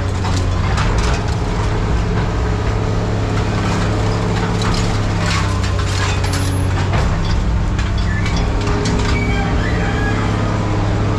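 A hydraulic scrap-handling machine's engine running steadily while its attachment works a pile of scrap metal, with repeated crunches, cracks and clanks of metal being pushed and crushed.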